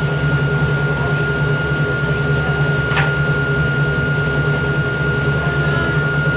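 Cabin sound of the Hakone Tozan Railway Moha 1 electric car No. 106: a steady mechanical hum with a constant whine over it, and a single sharp click about three seconds in.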